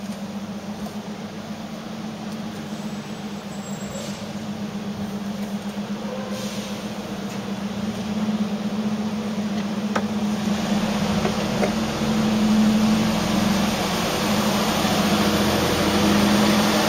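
Steady mechanical hum from a car's open engine bay, with a rushing hiss over it, growing louder about halfway through.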